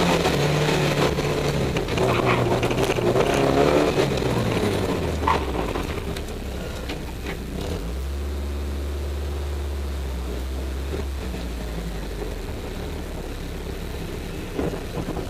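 Rally car's engine heard from inside the cabin, revving hard with its pitch rising and falling for the first few seconds, then the revs drop away and it settles to a low steady running as the car slows at the end of the run.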